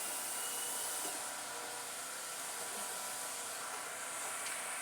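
Steady hissing noise, even throughout, with no speech over it.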